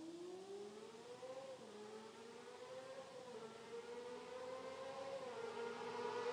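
Honda CBR250RR motorcycle with a Yoshimura R55 slip-on exhaust accelerating through the gears and approaching. Its high engine note climbs steadily with three brief dips at the upshifts, and it grows from faint to louder.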